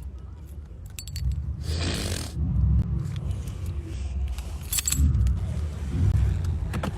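Keys jangling and clinking a few times over a steady low rumble.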